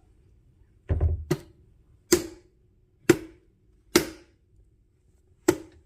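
Six sharp knocks on a hard object, unevenly spaced, each with a brief ring after it.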